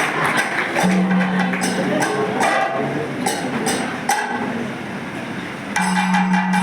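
Kathakali accompaniment music: metallic percussion strokes in a steady rhythm over drumming, with a held low note that comes and goes. It grows quieter for a moment, then picks up again shortly before the end.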